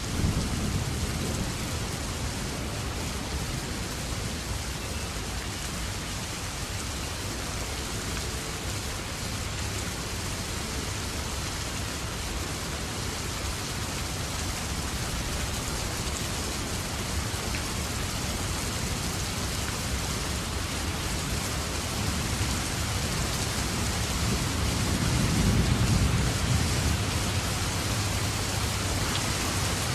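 Steady rain falling and pattering on surfaces. A low rumble swells and fades again a few seconds before the end.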